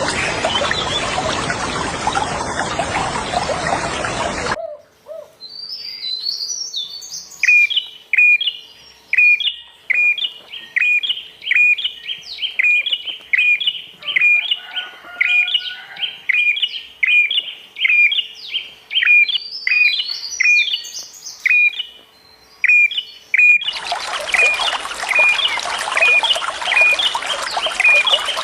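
Rushing water cuts off after about four and a half seconds, leaving a songbird repeating a sharp, high chirp about once a second, with a few quicker higher twitters mixed in. Near the end the water sound cuts back in under the continuing chirps.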